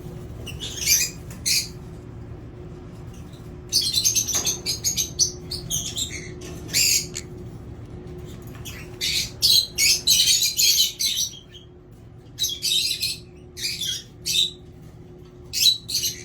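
Lovebirds in a breeding box giving short, harsh, high-pitched calls in clusters of several at a time, over a steady low hum.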